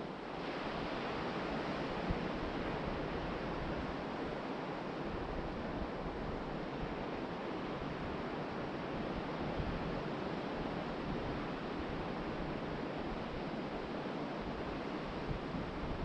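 Ocean surf breaking and washing up the beach in a steady rush, with wind rumbling on the microphone at times.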